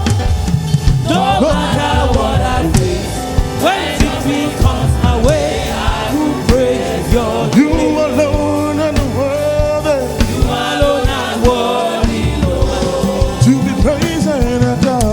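Gospel choir singing praise with a live band: vocal lines over bass and drums with regular beats.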